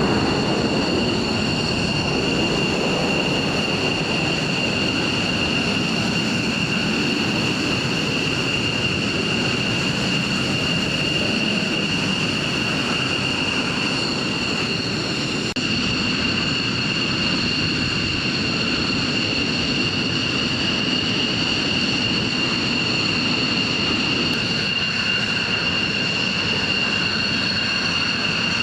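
Jet aircraft engine running steadily, a constant high whine over a broad rushing noise.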